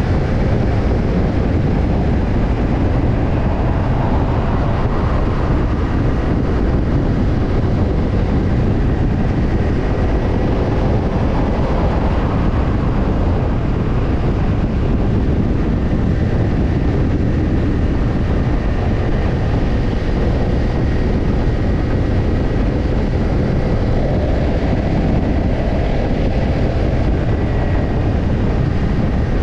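Kawasaki Ninja 250's parallel-twin engine running through a BEET Nassert Evolution Type II titanium slip-on muffler at a steady, even pace, with a heavy low rush of noise and no marked revving.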